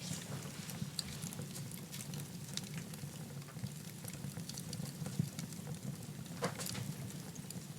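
Wood fire burning in a fireplace: a steady low rumble of the flames with scattered crackles and small pops, one louder pop about six and a half seconds in.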